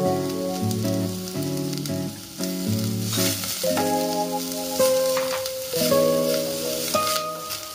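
Shrimp shells and heads sizzling in hot oil in a stainless steel pot as a wooden spatula stirs them with laksa paste, the sizzle swelling about three seconds in. Background music with a melody of changing notes plays over it.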